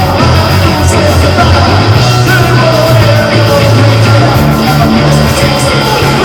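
A live band playing loud, distorted rock music, with a heavy bass line that changes note every couple of seconds.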